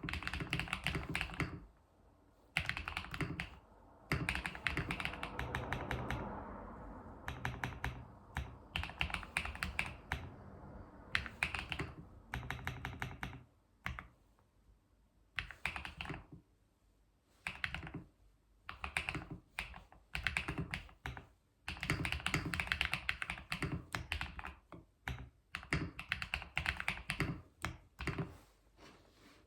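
Computer keyboard being typed on in runs of fast, dense keystrokes. The runs last one to three seconds, with short pauses between them: the deep clacking 'dogak-dogak' typing sound.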